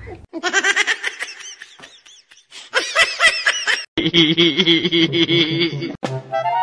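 Bursts of laughter, in several short clips cut one after another; near the end it cuts to music.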